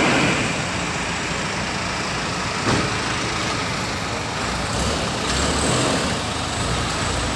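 Truck running, a steady rumble and road noise, with one short knock a little under three seconds in.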